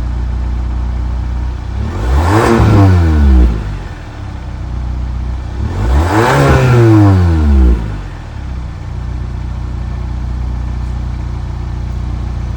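Kia K5 1.6L turbo four-cylinder with an aftermarket midpipe, idling and revved twice. Each rev rises and falls over about one and a half seconds before it drops back to idle.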